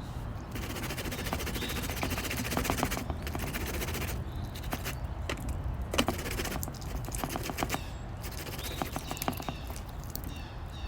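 Cactus being grated on a hand grater: rapid rasping strokes in quick succession.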